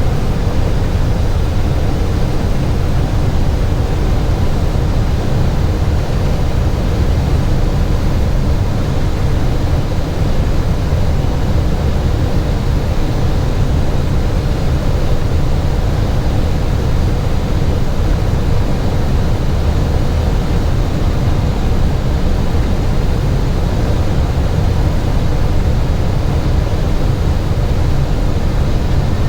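Steady airliner flight-deck noise on final approach: an even rumble of engines and airflow over the airframe, with the landing gear down and flaps at full.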